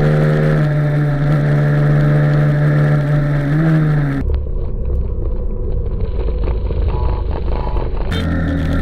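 Motorcycle engine running at steady high revs, rising slightly in pitch just before it cuts off about four seconds in. Then a low, rough rumble with scattered knocks and clatter.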